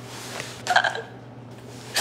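A person's short, sharp catch of breath, like a stifled sob, about two-thirds of a second in, over a soft breathy hiss and a steady low hum.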